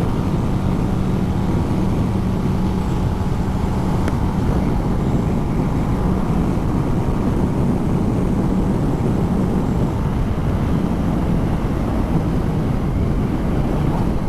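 Kawasaki ZX10R's inline-four engine running at a steady speed while cruising, with a dense rush of road and wind noise beneath it.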